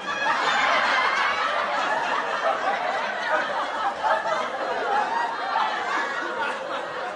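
A crowd laughing together, many voices overlapping in a recorded laugh track, easing off slightly near the end.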